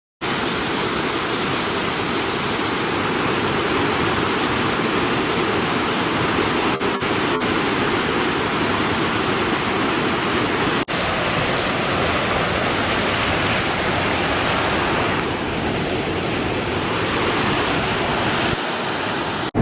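Steady rushing road and wind noise of a moving car, with a few split-second dropouts where clips are cut together.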